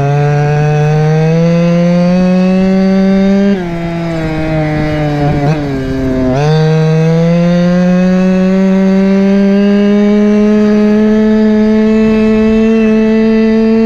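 Go-Ped scooter's small CY26RC two-stroke engine under load while riding, its buzz climbing in pitch as it accelerates. About three and a half seconds in the revs drop suddenly as the throttle is eased. About six seconds in it pulls again and winds up slowly and steadily.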